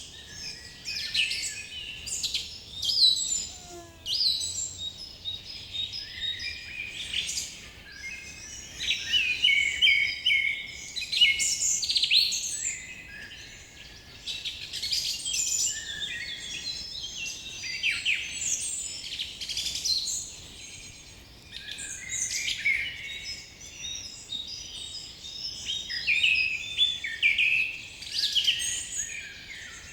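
Many birds calling and singing at once in a forest, a dense overlapping chorus of chirps, trills and whistles that rises and falls in loudness.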